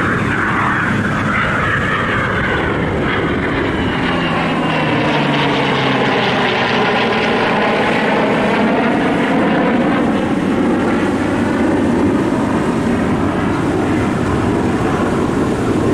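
An airshow aircraft flying past with its engine running steadily, a little louder around the middle of the pass.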